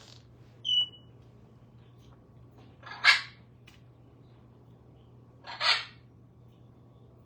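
A pet bird's single short high chirp about a second in, then two loud brief hissing bursts with no clear pitch, about two and a half seconds apart.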